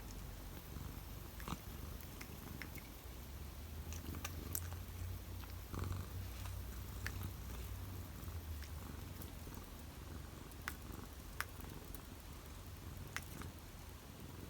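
Domestic cat purring steadily at close range, with a few faint scattered clicks and taps.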